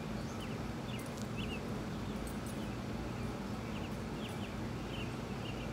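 Outdoor ambience: a steady low rumble, with small birds chirping briefly now and then.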